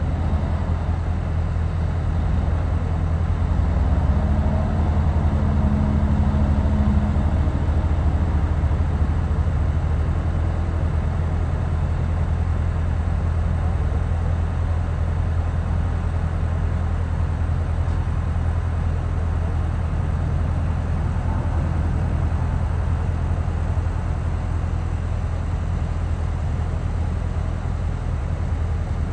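Steady, loud low engine rumble, with a faint hum that is a little stronger about four to seven seconds in.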